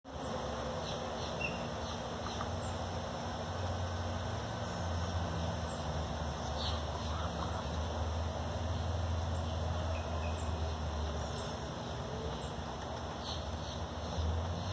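Faint, short high bird chirps scattered through, over a steady low rumble. No woodpecker drumming is heard.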